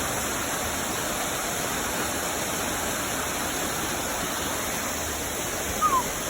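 Waterfall and fast-moving creek water rushing steadily. Near the end, a single short falling chirp rises briefly above the water.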